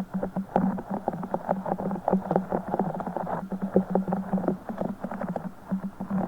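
A broken Orbeez stress ball being squeezed and squished by hand: a dense, continuous run of small wet squelching crackles.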